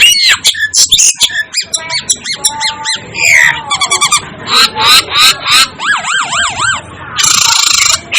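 Asian glossy starling calling in a rapid, varied stream of sharp clicks and whistles that slide up and down in pitch. About six seconds in there is a quick up-and-down warbling phrase, followed by a harsh, hissing burst near the end.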